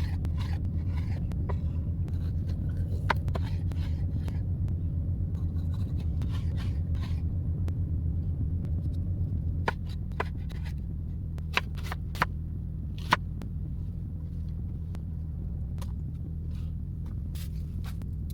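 Steady low rumble of a semi truck's diesel engine idling, with scraping and scattered sharp clicks and knocks from handling food and utensils. The loudest knock comes about 13 seconds in.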